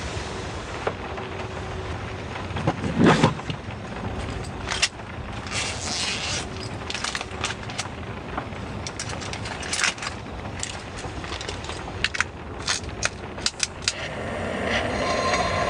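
Steady heavy rain hiss, with scattered clicks, knocks and scrapes of gear being handled; the loudest knock comes about three seconds in. Near the end a low steady hum builds up and grows louder.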